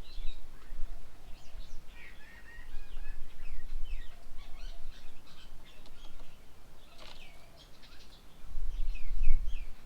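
Several birds chirping and calling in quick, short notes throughout, with a low rumble underneath that swells near the start and again near the end.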